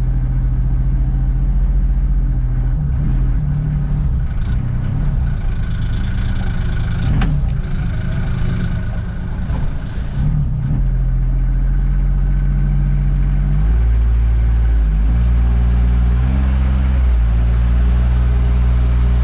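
Off-road vehicle engine running, its note wavering through the middle with a sharp click about seven seconds in, then settling to a lower, steadier note for the last third.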